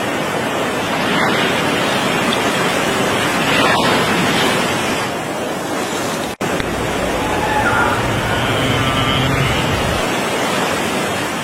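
Steady rushing of sea water and wind. It breaks off for an instant about six seconds in.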